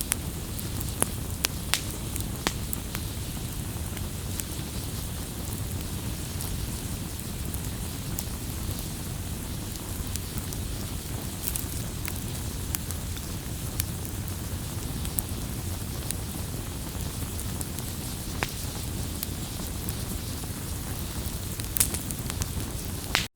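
Wood bonfire burning: a steady low rush of flames with scattered sharp crackles and pops, a couple of louder pops about a second in and near the end.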